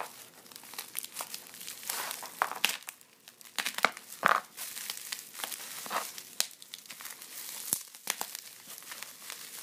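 Plastic packaging crinkling and rustling as it is handled and pulled open, with scattered sharp crackles and clicks.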